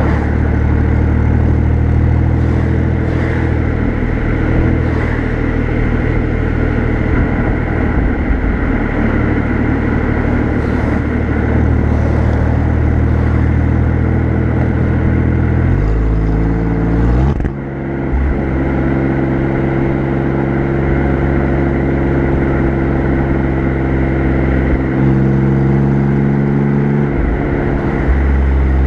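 Exhaust of an Alfa Romeo Giulia Quadrifoglio's twin-turbo V6, heard close at the rear bumper while driving at an easy pace. The note is mostly steady; a little past halfway it climbs briefly, then steps down with a short dip in level, and it shifts pitch again near the end.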